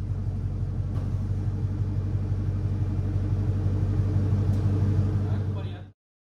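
5.3-litre V8 of a GMC Sierra pickup on headers, running with a steady, pulsing low rumble that grows slightly louder, then cuts off suddenly near the end.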